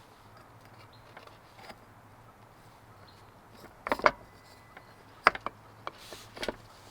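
Sharp clicks and knocks in short clusters: a few about four seconds in, another a second later, and more near the end, over a faint steady low hum.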